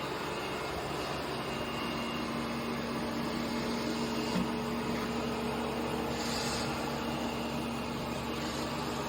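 Robot vacuum cleaner running: a steady motor hum with a whirring noise and a couple of held low tones, and a brief tap about four seconds in.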